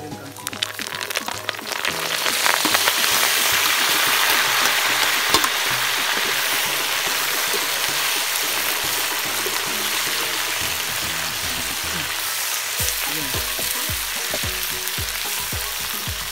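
Water spinach (kangkong) tipped into hot oil in a metal wok, sizzling louder over the first two seconds and then frying steadily. A metal ladle stirs and scrapes the leaves against the pan, giving scattered clicks.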